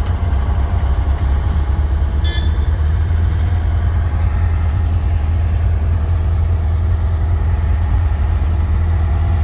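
Vehicle engine running steadily with a deep drone, heard from inside the vehicle while driving. A brief high squeak sounds about two seconds in.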